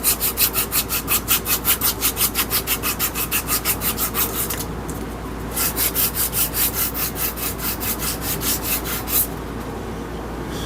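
Hand sanding a wooden hammer handle with sandpaper, quick back-and-forth strokes at about five a second. The strokes pause for about a second near the middle, then resume and stop about a second before the end.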